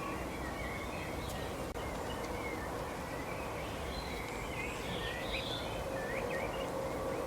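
Wild birds chirping in short, quick notes that slide up and down in pitch, busiest in the middle of the stretch. Under them runs a steady background noise with a faint hum.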